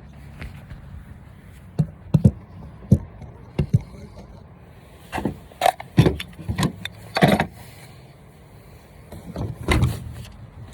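A dozen or so irregular knocks and clunks, some in quick pairs, like objects being handled and set down.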